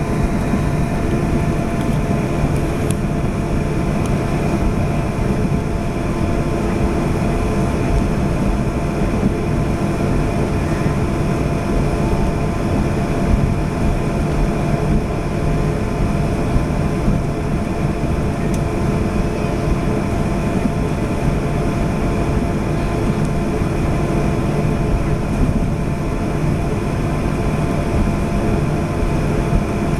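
Airliner engines running steadily, heard from inside the passenger cabin as a loud, even drone with several steady tones over it.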